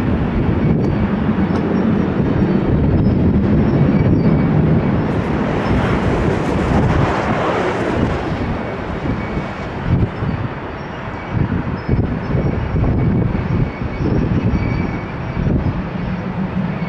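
Boeing 777 jet engines running loud during the landing, the rushing noise swelling to a peak about halfway through and then easing into an uneven low rumble.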